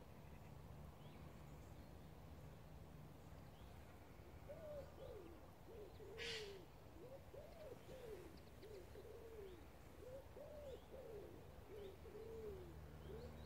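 Bird calls: a run of low hooting calls, each rising and falling, begins about four and a half seconds in and repeats for most of the rest. One short, harsh screech comes about six seconds in.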